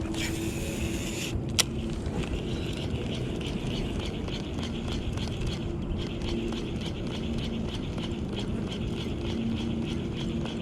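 A cast and retrieve on a fishing reel. About a second of hissing whir as line runs off the spool, then a sharp click, then steady fine rapid ticking as the reel is cranked in.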